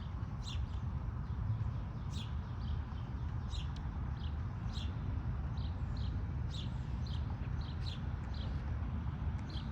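Small birds chirping, short high chirps about two a second, over a low steady rumble.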